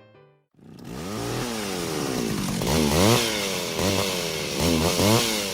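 Chainsaw revving up and down several times, starting about half a second in after a short silence, its pitch rising and falling with each rev.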